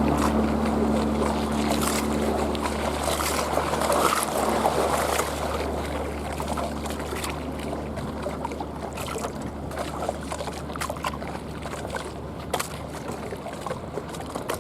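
Motorboat passing with its engine running; the engine's tones fade out a few seconds in and the level drops. Water then laps and splashes against the bank in many short slaps.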